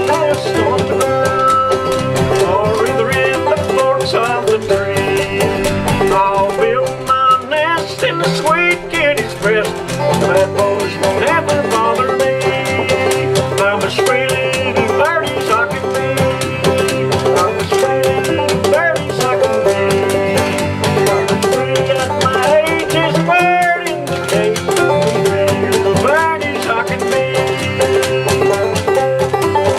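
Banjo and acoustic guitar playing an old-time tune together: quick plucked banjo notes over a steady ringing drone note, with the guitar keeping an alternating bass line underneath.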